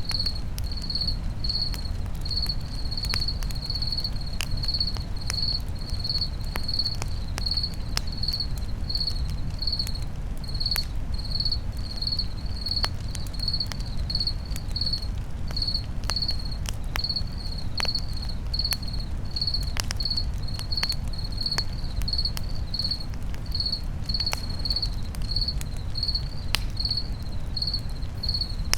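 A cricket chirping steadily, about two chirps a second, over a crackling campfire with scattered sharp pops and a low steady rumble.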